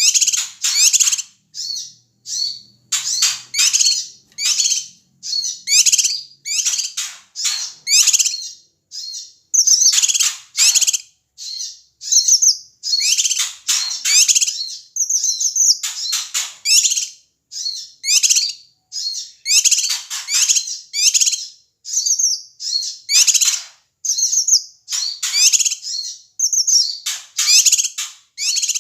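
Cucak kinoi, a Sumatran bulbul, calling noisily in rapid bursts of short, sharp notes with only brief pauses, the agitated, alarm-like calling used to provoke other birds.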